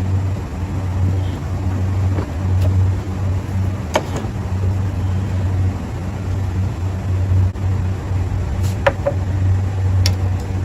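A steady low mechanical hum, pulsing slightly, with a few sharp clicks or knocks: one about four seconds in and two near the end.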